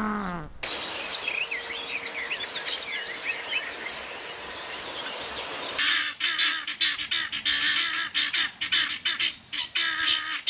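Small birds chirping over a steady hiss, then from about six seconds in, a flock of geese honking in quick, overlapping repeated calls.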